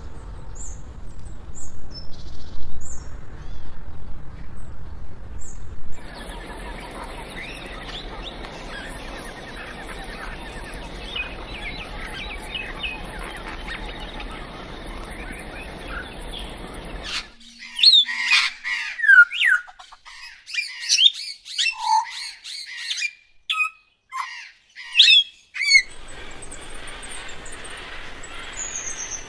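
Several wild birds calling and chirping over a steady forest background, with a high, fast-pulsing buzz through the middle stretch. A little past halfway the background drops away and a string of loud, sharp bird calls, many sliding down in pitch, stands out on its own.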